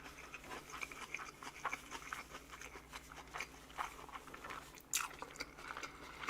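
Close-miked eating of bossam, boiled pork with kimchi: wet chewing with many small crisp crunches, and one sharper crunch about five seconds in.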